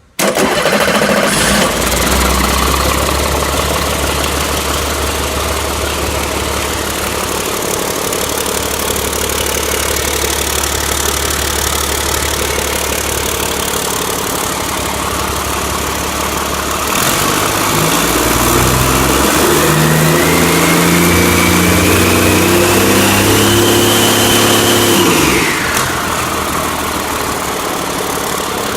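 2008 C7 ACERT truck diesel engine starting up abruptly, then running steadily at idle. About two thirds of the way through it is revved up with a climbing whine, held for several seconds, then dropped back to idle.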